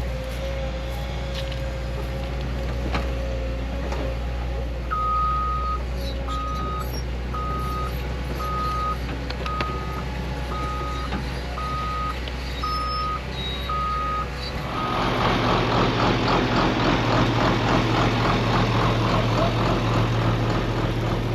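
Backup alarm of a heavy diesel machine beeping about once a second over the engine's steady low running. About fifteen seconds in, the beeping stops and the engine gets louder, working harder with a rattle.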